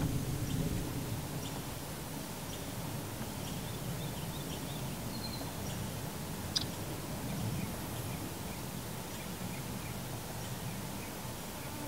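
Faint, scattered chirps of small birds over a steady low rumble, with one sharp click about six and a half seconds in.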